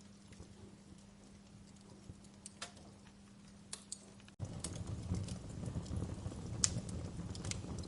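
Wood fire crackling: scattered sharp pops over a low hum. A little past halfway the sound breaks off for an instant and comes back louder, with a fuller low rumble and more pops.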